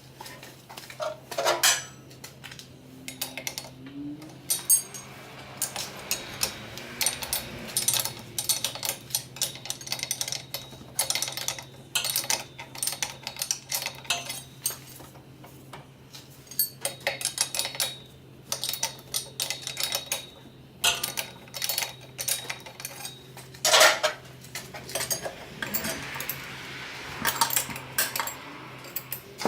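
Hand tools and metal parts clinking and clanking: irregular sharp metallic knocks, one loud knock near the end, over a steady low hum.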